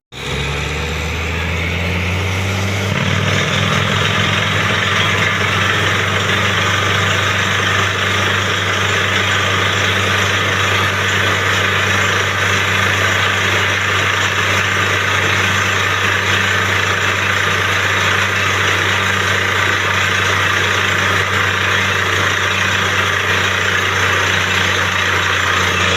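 Truck-mounted borewell drilling rig running at full work: a loud, steady heavy engine drone with a dense, constant rushing noise of the drilling over it.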